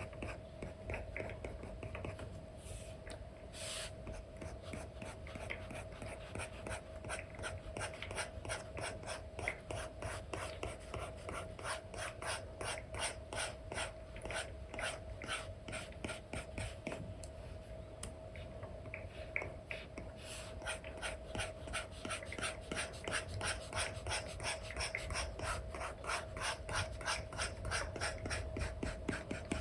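Apple Pencil 2 with an Elecom nib scratching across a paper-feel screen film on an iPad, in quick back-and-forth brush strokes about three a second, with a couple of short pauses.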